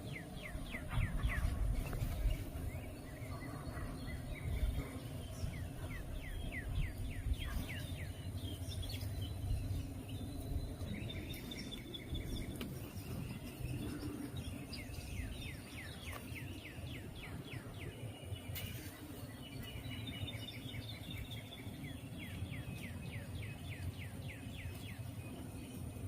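Songbirds calling and singing: repeated runs of quick, sweeping whistled notes, over a low rumble of breeze on the microphone.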